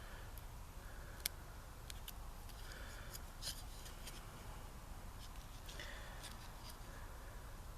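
Faint scraping and rubbing of wood being worked by hand, with a few sharp clicks, one about a second in and another about three and a half seconds in.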